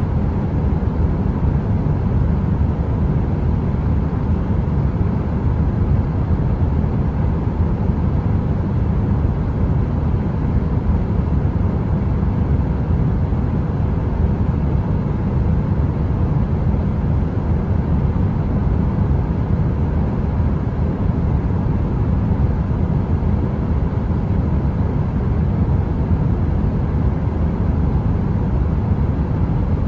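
Heater running with a steady, deep rumbling hum that does not change, with a faint even hum above it.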